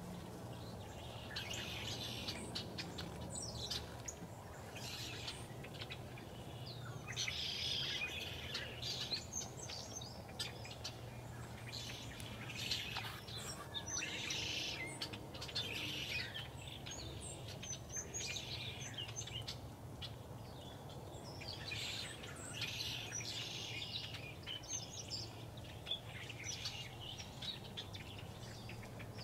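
Small birds chirping and twittering, many short high calls coming in clusters, over a faint steady low hum.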